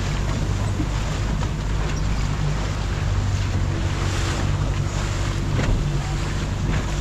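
Boat engine running steadily under way, with water rushing past the hull and wind buffeting the microphone.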